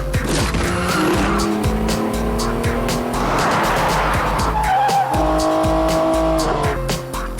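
A car driving hard with tyres screeching, the squeal sliding in pitch, over background music.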